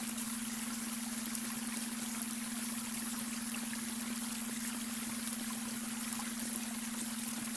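Babbling brook, water running and trickling steadily, with a steady low hum underneath: an added beta-wave brainwave tone.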